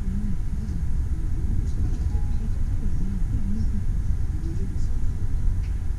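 Passenger train carriage rolling slowly over the rails, heard from inside the carriage as a steady low rumble.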